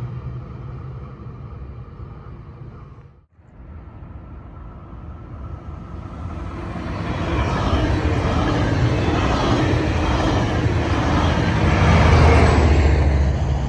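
A Metrolink commuter train's diesel engine humming steadily at a station. Then a Metrolink diesel locomotive approaches and passes close by, engine and wheel noise building to its loudest about twelve seconds in.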